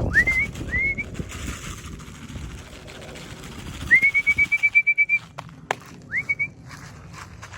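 A person whistling to call racing pigeons down to the loft. The first two calls are short and sweep upward. A longer call about four seconds in rises and breaks into a quick warble, and one last rising call follows. Two sharp clicks come in between.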